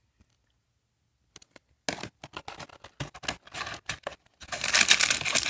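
Doll-set packaging being handled: a few scattered crackles, then dense crinkling and tearing from about four and a half seconds in as the wrapping is pulled open.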